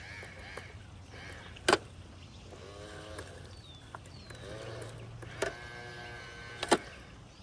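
Small electric motor of a toy garbage truck whirring in short bursts that bend in pitch, with two sharp plastic clacks.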